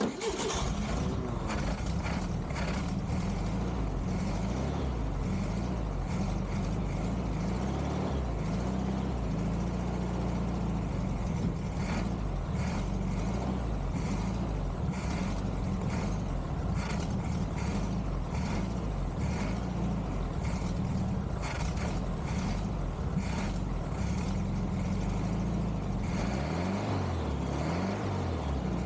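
1969 Volkswagen Beetle's air-cooled 1500 flat-four engine running steadily; it comes in abruptly and keeps a low, even note throughout.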